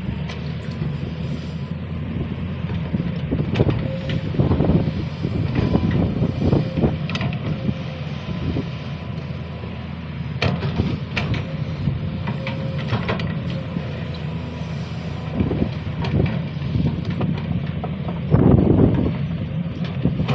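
SANY SY215C excavator working, its diesel engine running steadily under load with a thin steady whine above it, and irregular knocks and scrapes throughout, loudest near the end.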